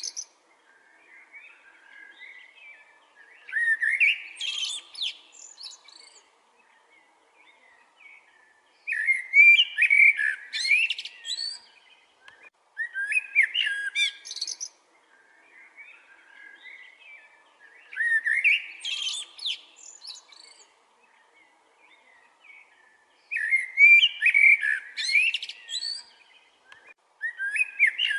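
A songbird singing, repeating the same short, quick phrase of rising and falling whistled notes about every four to five seconds, with softer chirps between phrases.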